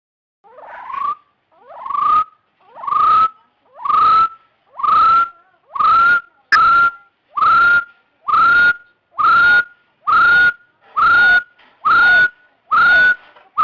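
Hill partridge call: a series of upslurred whistled notes, about one a second, the first few faint and swelling to full strength. A sharp click sounds once about six and a half seconds in.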